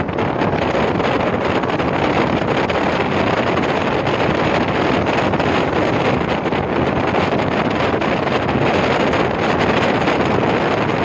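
Mumbai suburban electric local train running at speed, a steady rush of wind and running noise, with heavy wind buffeting on the microphone held out of the open door.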